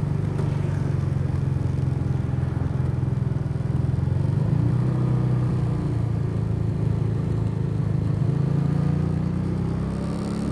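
Custom motorcycle's engine running steadily while riding, its pitch rising about four seconds in as it speeds up.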